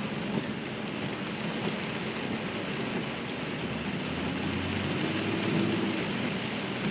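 Rain on a car with engine and road noise heard from inside the cabin; a low engine hum swells about four seconds in.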